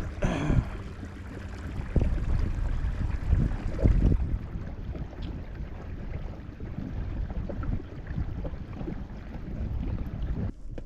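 Wind buffeting the microphone and water moving against a fishing kayak, a steady low rumble with scattered small knocks and a short falling sound at the start.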